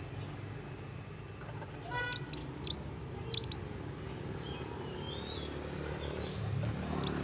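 Young mantenan (scarlet minivet) calling: short, high chirps in quick groups of two or three, with a few softer falling notes between them, over a low steady background rumble.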